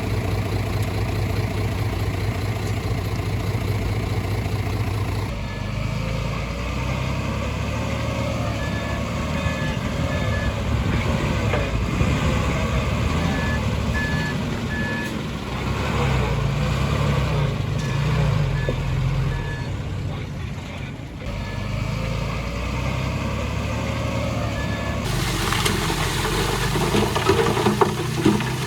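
Diesel engines of earthmoving machinery running steadily, the engine note shifting as the load changes. A reversing alarm beeps in short runs through the middle stretch.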